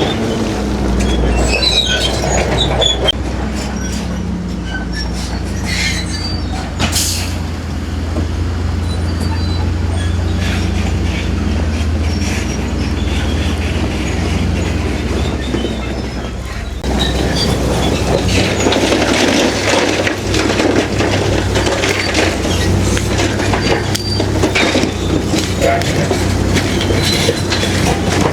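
Heavy crawler bulldozer working: its diesel engine runs under load with a steady low drone while the steel tracks clank and squeal. About two thirds of the way through it suddenly gets louder, with more rattling.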